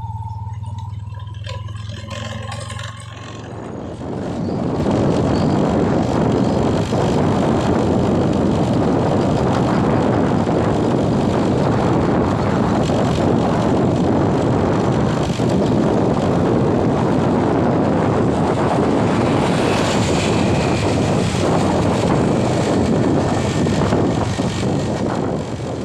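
Heavy rain falling: a loud, steady rushing hiss that sets in about four seconds in after a low hum, and fades out at the end.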